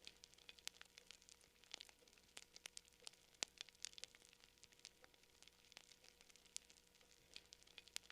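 Campfire crackling: quiet, irregular sharp pops and snaps from burning wood, several a second, with one louder pop about three and a half seconds in.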